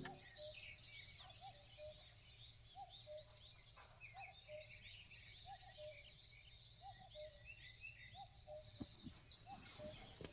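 Faint birdsong: many small birds chirping, with one call repeating about once a second. There are a few faint knocks near the end.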